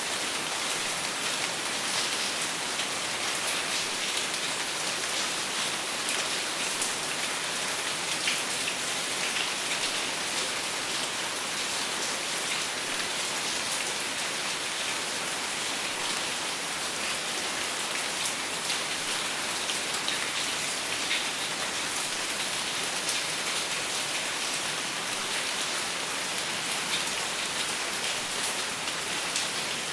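Steady rain falling, an even hiss of many drops with fine individual drop ticks, without thunder.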